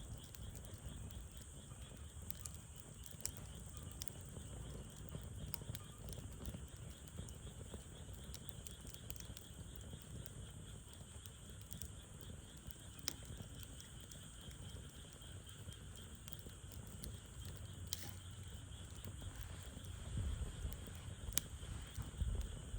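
Wood campfire crackling, with sharp pops every few seconds over a low rumble, and a steady high insect chirr behind it.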